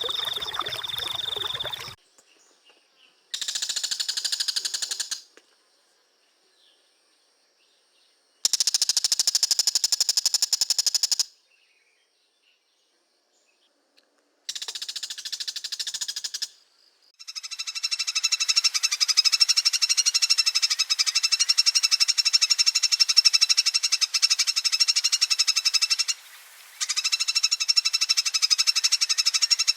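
Rapid, finely pulsed trilling animal calls: three separate bursts of about two to three seconds each with silent gaps, then a long unbroken run of about nine seconds, a short pause, and another run near the end.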